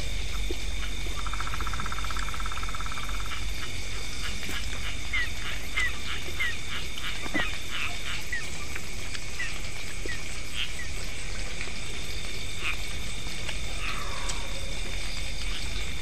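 Night chorus of frogs and insects: steady high trilling throughout, a buzzing pulsed call early on, and a run of about eight short rising chirps in the middle, over a steady low rumble.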